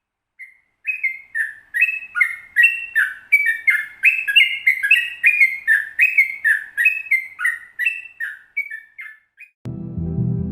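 Sooty-headed bulbul (trucukan) singing a long 'ropel' phrase: a quick run of short, bubbly whistled notes, each sliding up or down, about three a second for roughly eight seconds. Music comes in just before the end.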